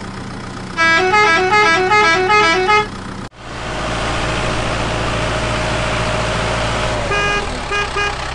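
A vehicle horn playing a short tune of quick stepped notes, then, after a sudden cut, a steady noisy vehicle running sound with a held tone, ending in a few short horn toots.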